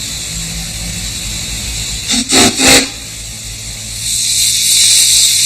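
Steam hissing, then two short blasts of a steam whistle a little past the middle, followed by a louder, sharper rush of escaping steam near the end.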